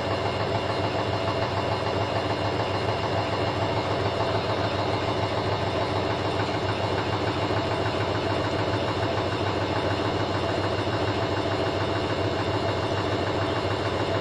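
Candy front-loading washing machine spinning its drum at around 800 rpm between rinses, a steady machine hum with several fixed motor tones.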